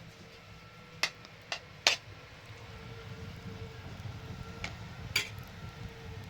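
Five sharp clicks or knocks: three within the first two seconds and two more near the end, over a low steady hum.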